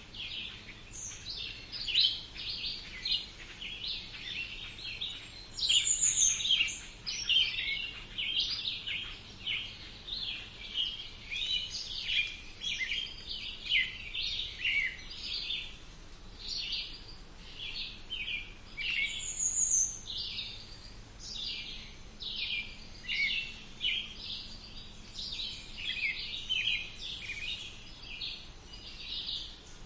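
Wild birds singing and chirping, a dense, unbroken chorus of short, high calls, with a few higher, clearer notes standing out now and then.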